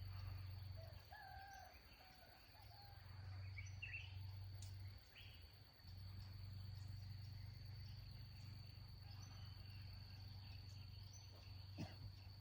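Faint outdoor ambience: a steady high insect tone under a low hum, with a few short bird chirps in the first few seconds.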